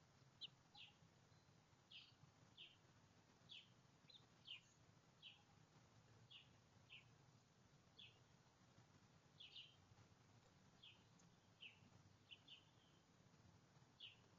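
Faint, short bird chirps repeated irregularly, about one or two a second, over a faint low hum.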